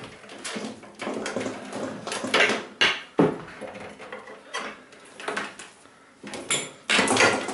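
Irregular knocks and metallic clatter from handling the parts and cables of an opened microwave oven.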